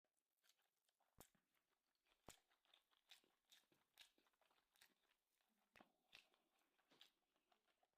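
Faint, irregular crunching and chewing of food by a person eating, with many small sharp clicks and a couple of louder bites early on.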